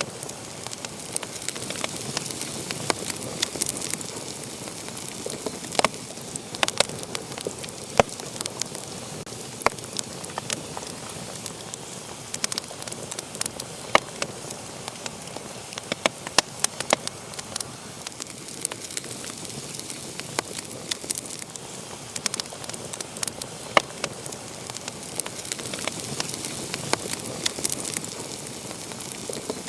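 Fire burning in a fireplace, crackling with frequent sharp, irregular pops and snaps over a steady hiss.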